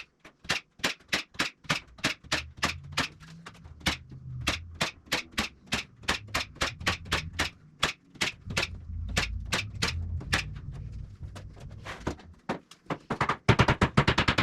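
Sharp clicks or taps in a steady series, about three a second, from repeated work with a tool on the build. About a second and a half before the end, a much faster, louder rattling run sets in.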